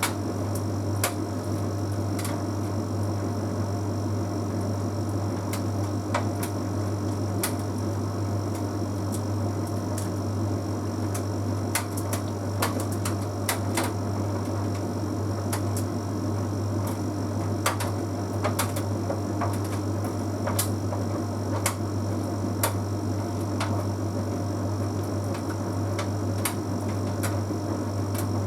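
Bosch Series 6 heat pump tumble dryer running mid-cycle: a steady low hum with a few higher steady tones, and irregular light clicks and taps scattered throughout.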